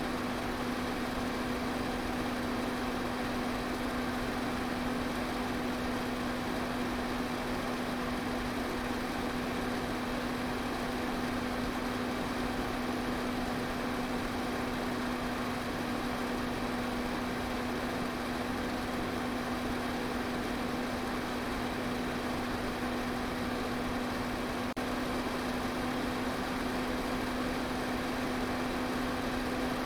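Electric pedestal fan running steadily: an even rush of air over a constant low motor hum.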